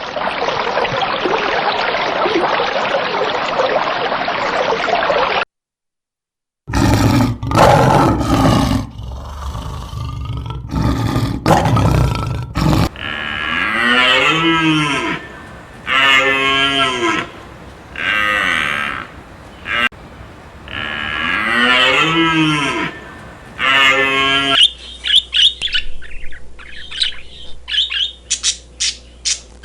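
A steady rushing noise for about five seconds, then a short silence, then loud bovine lowing and mooing: first rough and abrupt calls, then a series of drawn-out calls about a second long that rise and fall in pitch. Rapid high bird chirping takes over near the end.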